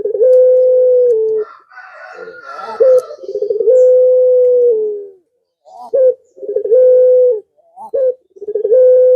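Male puter pelung, a long-cooing collared dove, cooing four times, about once every two to three seconds. Each coo is a short rising note followed by a long level note that dips at its end. A brief higher chirping comes between the first two coos.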